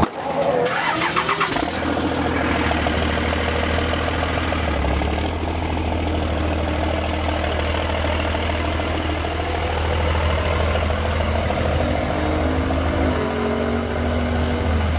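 Vehicle engine running steadily with a deep, constant low drone.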